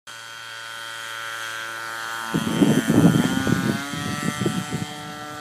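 A propeller aircraft's engine running with a steady, many-toned whine. A little over two seconds in it throttles up, a rough rushing noise joins, and the pitch rises about three seconds in as the plane gets moving for takeoff.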